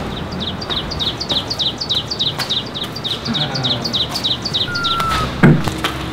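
Bird chirping: short high chirps repeating evenly, about four a second, that stop about five seconds in. A heavy thud follows about half a second later.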